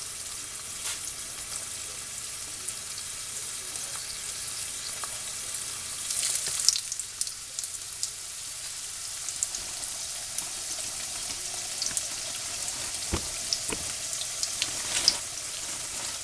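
Corn tortillas frying in very hot oil in a pan: a steady sizzle with scattered crackles and pops, flaring louder about six seconds in. A couple of sharp knocks come about thirteen seconds in.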